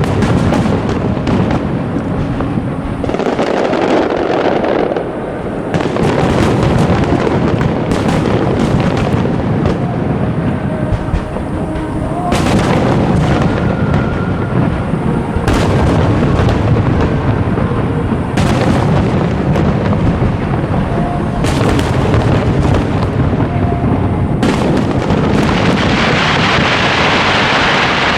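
Large aerial fireworks display: shells bursting one after another in a dense, continuous barrage of booms and crackle. A higher hissing rush swells near the end.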